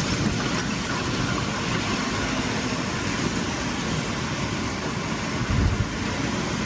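Steady noise of a car driving on a rain-soaked road: tyre hiss on wet tarmac mixed with rain. A short low thud comes about five and a half seconds in.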